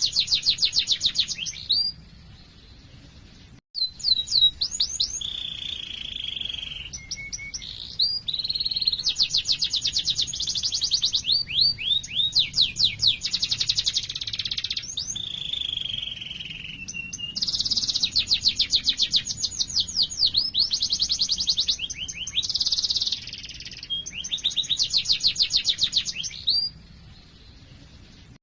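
Domestic canary singing long rolling trills of fast repeated notes, mixed with quick chirps and a few held whistled notes, broken by two short pauses, one about two seconds in and one near the end.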